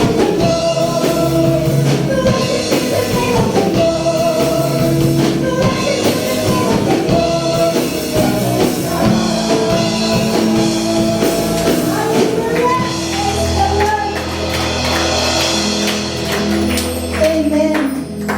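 A praise-and-worship song: a band playing with voices singing, continuous and loud, with a deep sustained bass note entering about two-thirds of the way through.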